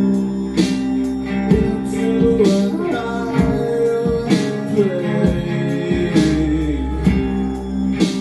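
Live acoustic band music: guitars strummed and plucked over held chords and a bass line, with a voice singing.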